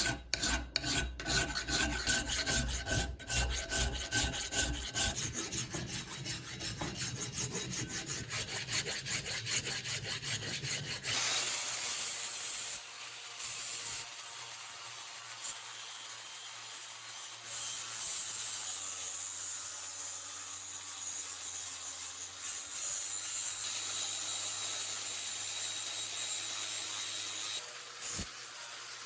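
Quick, even hand-rubbing strokes on the iron kettlebell. About eleven seconds in they stop and a steady hiss from an aerosol spray-paint can takes over, with one short knock near the end.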